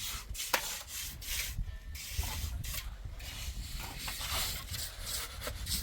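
Irregular scraping strokes, with a sharp click about half a second in, over a low rumble.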